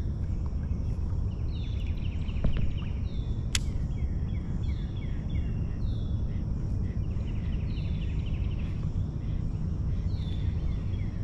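A songbird singing, repeating a short phrase of quick falling notes every second or two, over a steady low rumble. A single sharp click comes about three and a half seconds in.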